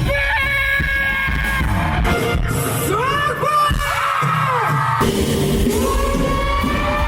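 Rock song with a male lead singer belting long, high held notes, sliding up into them and falling off at their ends, over a full band with drums.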